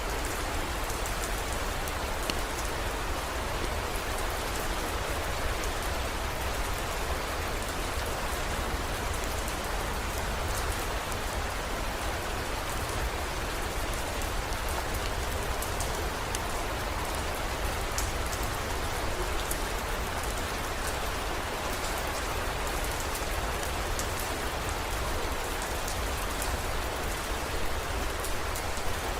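Steady heavy rain falling, with scattered sharp drop ticks and a low, steady rumble underneath.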